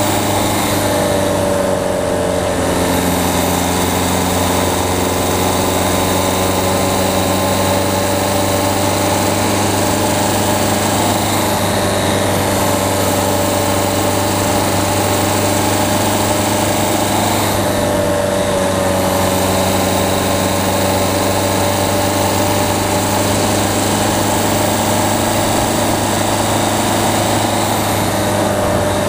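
Peugeot 208's diesel engine running steadily while the car drives on a mountain road, picked up by a camera mounted on the front of the car. The engine note drops and settles about a second in and again about two-thirds of the way through.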